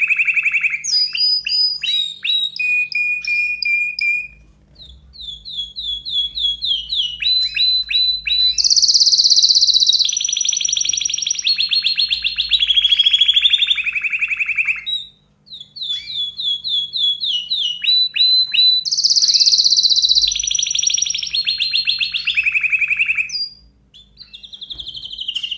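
A domestic canary singing an excited, loud song of fast high trills and rolling repeated notes. It breaks briefly about four and fifteen seconds in, and the same run of phrases comes round again. A faint steady low hum lies underneath.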